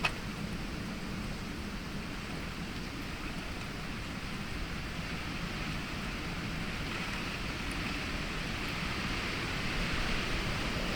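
Heavy storm rain, a steady hiss that slowly grows louder toward the end.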